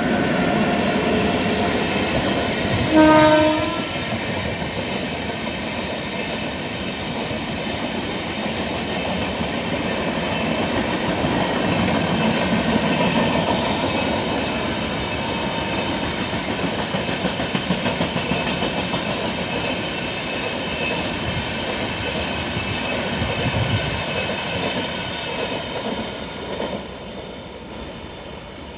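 Passenger train hauled by a WAP-7 electric locomotive passing. A short horn blast comes about three seconds in, then the steady rumble of the coaches and the clatter of wheels over rail joints, fading near the end.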